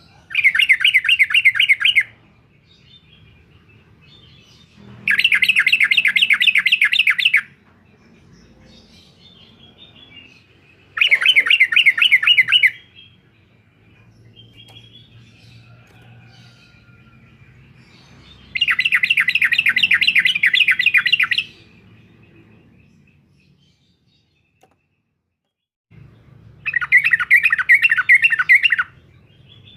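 Yellow-vented bulbul (trucukan) calling in rapid chattering 'uklik-uklik' phrases: five bursts of quick repeated notes, each about two seconds long, with pauses of several seconds between them.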